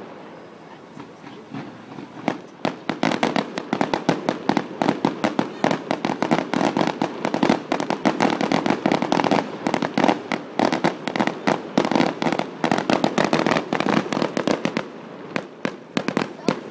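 Fireworks display going off: a dense run of rapid bangs and crackles, many per second, building up about two seconds in, with a short lull near the end.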